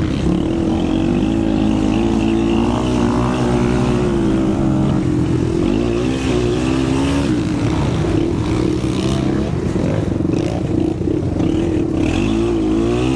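Racing quad's engine heard up close from on board, revving up and down under load, its pitch rising and falling again and again.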